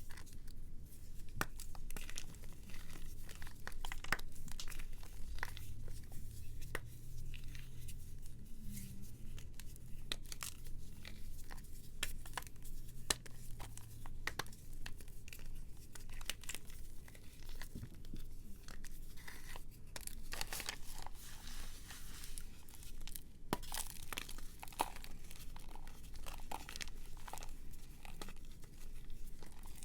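Dry, brittle material being crumbled and crunched, a dense run of small irregular crackles.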